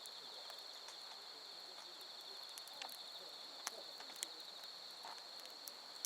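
Insects calling in a continuous high trill, with the scattered sharp crackles and pops of firewood burning; two louder pops come a little past the middle.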